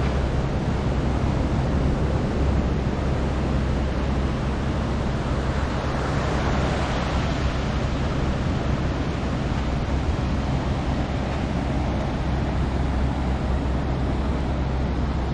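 Ocean surf breaking on a beach, a steady wash of noise, mixed with wind buffeting the microphone and a constant low rumble underneath.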